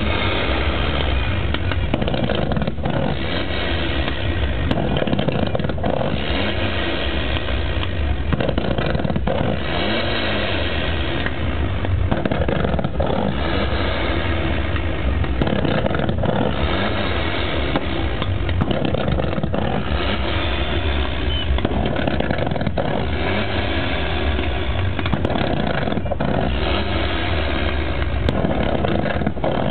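Car engine running loudly, its pitch rising and falling every few seconds as it is revved.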